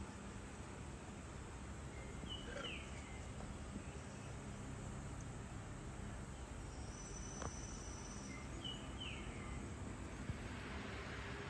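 Outdoor morning ambience: a steady background hiss with a bird calling twice, about six seconds apart, each time a short high note followed by a falling one. Between the two calls a thin, high, steady tone sounds for about a second and a half.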